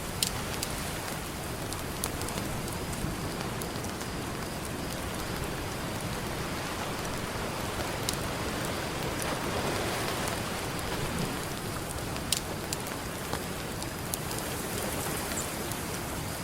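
Campfire crackling, with scattered sharp pops of burning wood, over a steady wash of ocean surf that swells briefly about nine seconds in.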